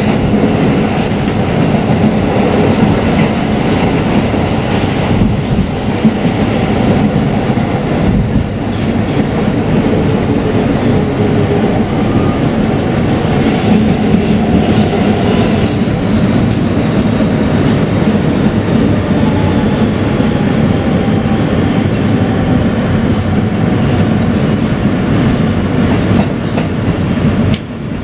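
Inside a moving NYC Subway R160B car with Siemens propulsion: the steady rumble and rattle of the car running along the track, with the clickety-clack of wheels over rail joints.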